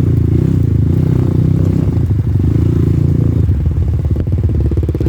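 Off-road dirt-bike engine running while ridden, holding a steady note, then turning to a coarser, pulsing beat about three and a half seconds in.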